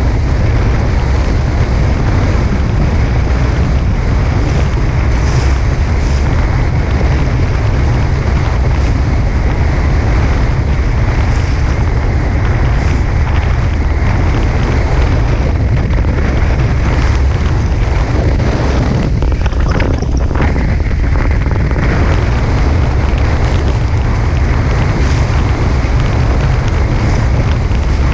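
Strong wind buffeting an action camera's microphone on a fast-sailing catamaran in heavy wind, a steady, loud rumbling rush with water noise beneath it.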